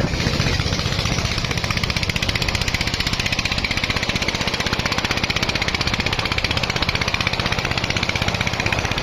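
Single-cylinder diesel engine of a công nông farm truck running steadily, a rapid even chugging.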